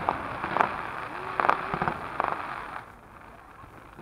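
Aerial fireworks shells bursting: a run of sharp bangs with crackling, about half a dozen in the first three seconds, then falling quieter near the end.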